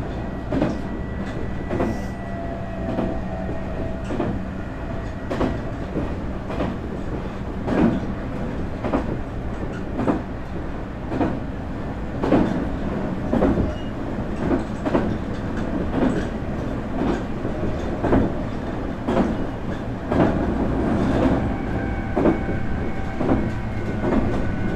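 Nankai 8300 series electric train heard from inside a motor car as it runs along at speed: a steady rumble with the wheels clacking over rail joints. Faint steady whining tones from the traction motors and inverter die away early on and come back near the end.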